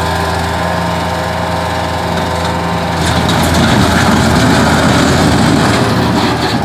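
Bobcat 753 skid-steer loader's engine running steadily, then about three seconds in it gets louder and rougher for a few seconds before settling back.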